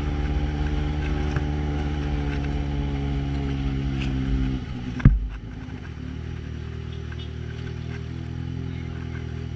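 Yamaha XJ6 inline-four with a 4-into-1 Atalla exhaust, running at steady low revs. About five seconds in there is a sharp clunk, and the engine drops to a quieter, lower idle.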